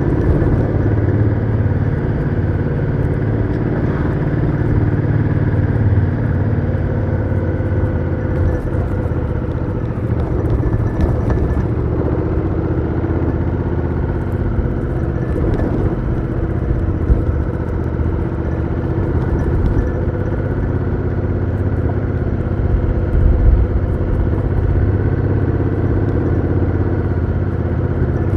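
Honda Africa Twin CRF1000L's parallel-twin engine running through its stock exhaust, heard onboard while riding, its note rising and falling with the throttle.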